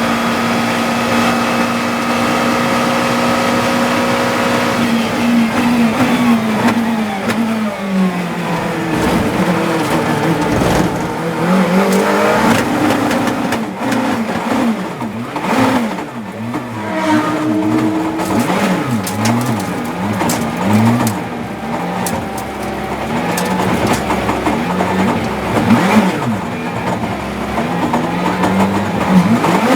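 GT3 race car engine heard from the cockpit. For the first few seconds it holds a steady pitch, then it rises and falls again and again as it revs up and down through gear changes, with quick repeated up-and-down sweeps around the middle.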